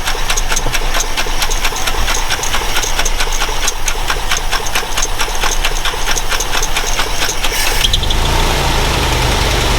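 Truck engine idling just after being brought back to life from sitting as a parts truck, with a rapid, even ticking. About eight seconds in the ticking stops and the sound settles into a steadier, deeper drone.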